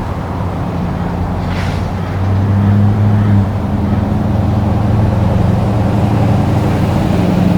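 Steady low engine hum over a rushing background noise, swelling louder about two seconds in and easing back a second later.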